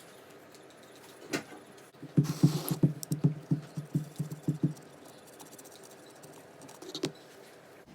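Metal parts of a front-door latch being handled and worked: a single click, then a quick run of about ten rattling knocks at about four a second, and another click near the end.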